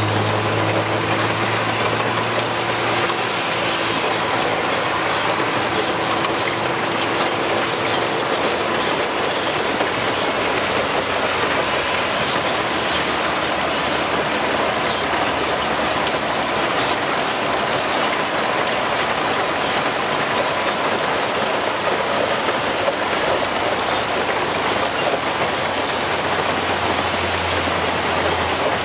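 A heavy rain downpour: a steady, dense hiss of rain falling and spattering on surfaces. A low hum sits under it at the start, fades out a few seconds in, and comes up again near the end.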